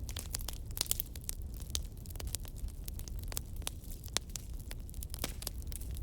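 Wood fire in a fireplace: logs burning with a steady low rumble and many quick, irregular crackles and pops.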